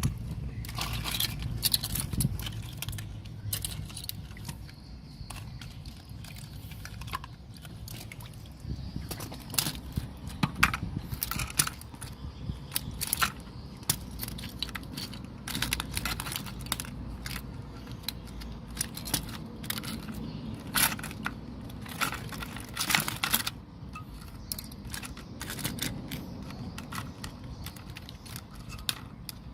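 Irregular clicks, taps and scrapes of small tools and parts being handled during repair work on a JVC PC-V55 radio cassette player, over a low steady rumble.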